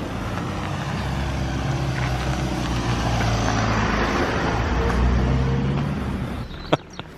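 A large truck passing close by on a narrow road. Its low diesel engine note and tyre rush build to a peak about four to five seconds in, then fade. A couple of sharp clicks come near the end.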